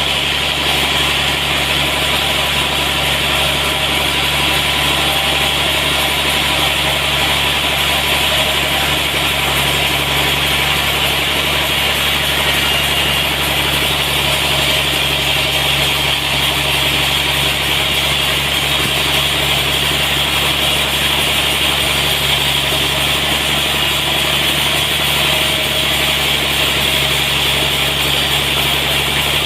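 A sawmill runs steadily, its engine humming evenly under a constant hiss from the saw, with no change for the whole stretch.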